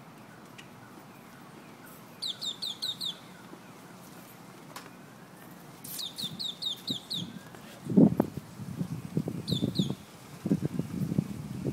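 A bird calling: quick runs of high, downward-slurred chirps, five notes at a time, repeated three times. Over the second half there are louder bursts of low, rough noise.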